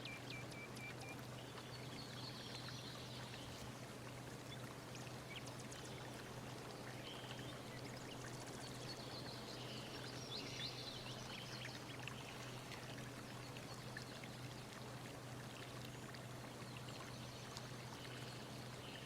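Faint steady rushing noise over a constant low hum, with scattered faint high chirps and squeaks.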